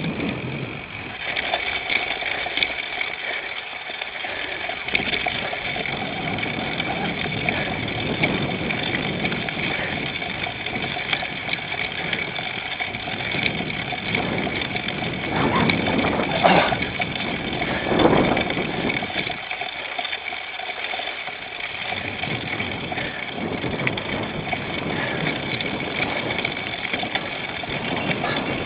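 Cyclocross bike being ridden over rough ground, with wind on a bike-mounted camera's microphone and a steady rattle and whir. Two louder knocks come a little past halfway.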